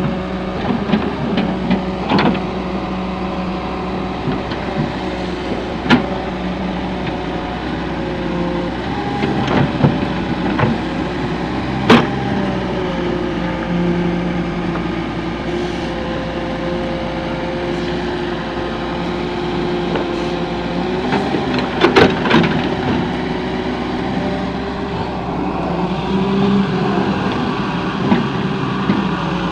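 Diesel engine of a Volvo EW130 wheeled excavator running steadily, its pitch shifting slightly as the hydraulics take load, with several sharp knocks or clanks scattered through it.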